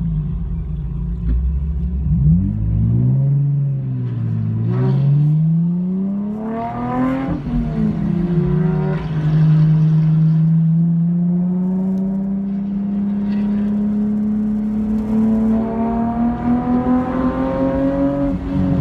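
Car engine heard from inside the cabin, pulling away from near walking pace. It revs up, drops in pitch at an upshift about seven seconds in, then climbs slowly in the next gear as the car gathers speed.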